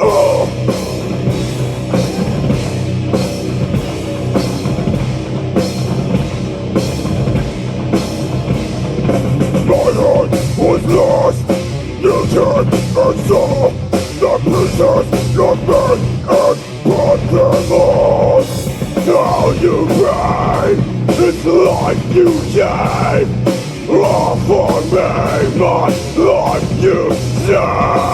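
Live heavy metal band playing an instrumental passage: distorted guitars and bass over a steady, fast drum beat, with a melodic lead line rising above the band from about ten seconds in.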